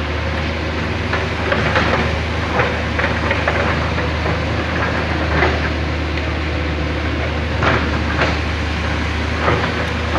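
Hydraulic excavator's diesel engine running steadily under load, with scattered sharp clanks and knocks from the working machine.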